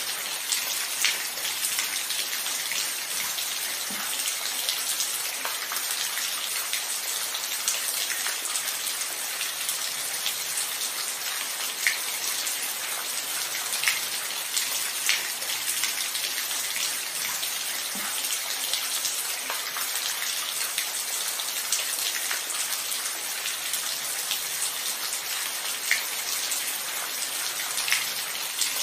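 Steady rain falling, an even hiss with scattered individual drops ticking sharply close by. No thunder.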